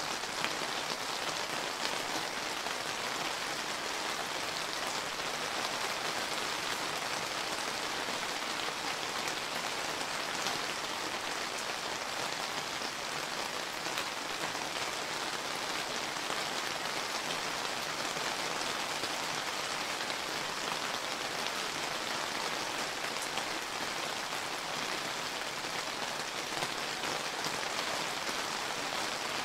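Steady summer rain falling and pattering on surfaces, an even hiss dotted with fine droplet ticks.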